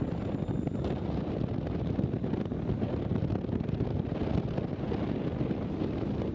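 Wind buffeting the microphone on a ferry's open deck, a steady rough rumble with most of its weight low down.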